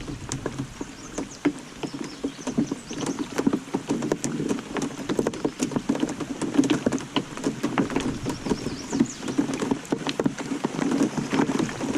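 Heavy rain pattering down: a dense, irregular run of sharp drop hits on hard surfaces and on the water.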